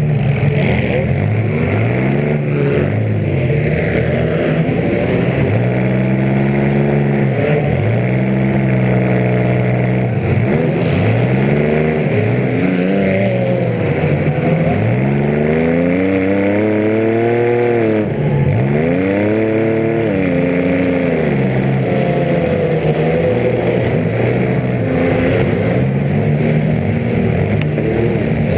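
Compact demolition derby car's engine heard from inside the car, running loud and revving up and down again and again as the car accelerates and backs off.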